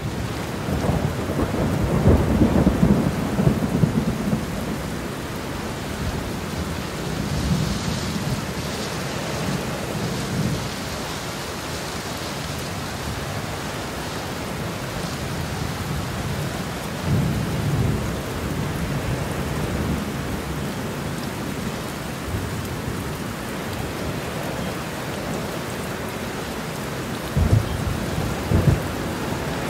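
Steady rain with low rumbles of thunder, the biggest rumble about two seconds in, a smaller one midway, and two short ones near the end.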